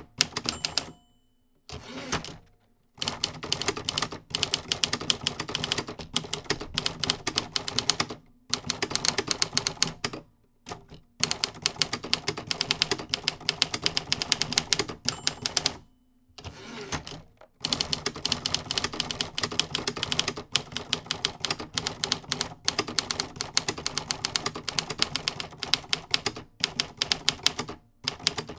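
Mechanical typewriter being typed on: fast runs of sharp key strikes, several a second, broken by short pauses between bursts.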